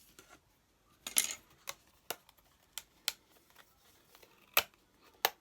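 Small tools and craft materials being handled and cut: a string of short, sharp clicks and brief rustles, the loudest about a second in.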